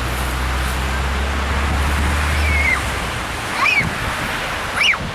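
Wind rushing over the microphone, with a low steady engine hum that stops about halfway through. In the second half come three short, high squeals, each rising and then falling in pitch.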